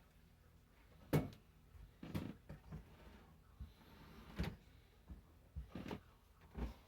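Irregular knocks and thuds, about nine in all, the loudest a little over a second in, like objects being handled and set down in a small room.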